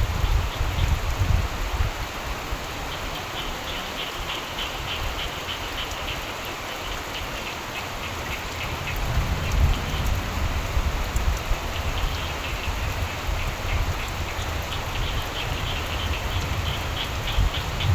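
Steady rain falling, with frogs calling in a chorus of rapid pulsing trills over it. A low rumble sits underneath, swelling about halfway through.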